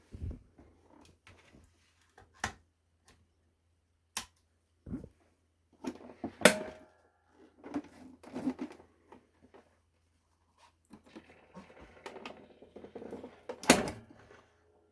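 Scattered clicks, taps and knocks of hard parts being handled, with light rubbing and rustling between them. The two sharpest clicks come about six and a half seconds in and near the end.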